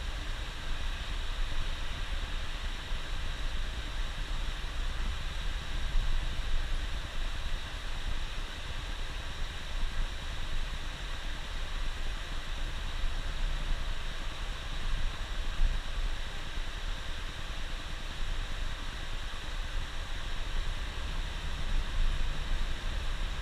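A bus driving: a steady engine drone and road noise, with a low rumble underneath and an even hiss on top.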